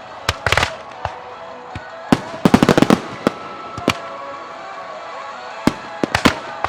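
Aerial firework shells bursting in sharp bangs, a few near the start, a fast run of about ten around the middle, then more scattered bursts near the end. Faint background music plays underneath.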